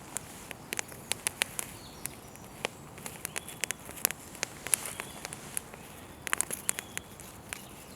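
Wood campfire burning, with irregular sharp crackles and pops from the burning wood over a faint steady hiss.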